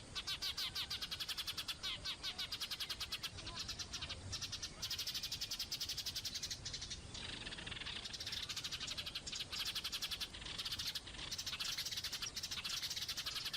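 Rapid, evenly repeating high-pitched chirps from a small animal, about seven a second, running on with a few brief breaks.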